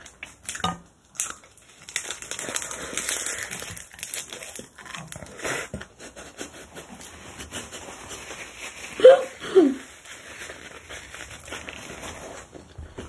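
Close-miked chewing of a mouthful of spicy kimchi bibimbap, with wet crackly crunching of kimchi loudest in the first few seconds. About nine seconds in comes a short hummed 'mm' that falls in pitch, the loudest sound here.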